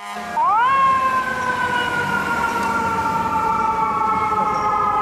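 Fire truck siren: its pitch rises quickly about half a second in, then holds one long wail that slowly falls.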